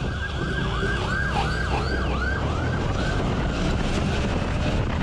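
Police siren in a fast yelp, its pitch sweeping down and up about three times a second, over a steady low rumble of wind and road noise. The yelping fades out after about three seconds.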